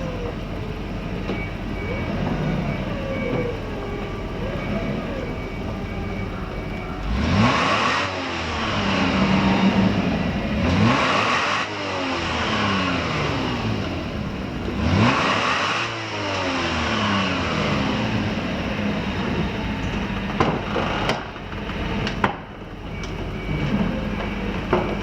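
Toyota 1G-GZE supercharged straight-six idling, then revved three times, each rev rising quickly and sinking back slowly to idle.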